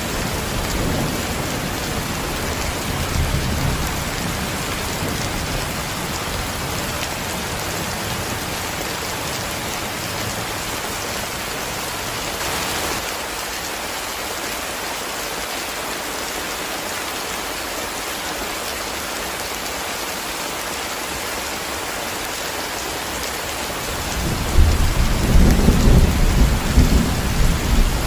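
Heavy rain falling steadily, with rolling thunder. A low rumble early on fades out, and a louder rumble of thunder starts near the end.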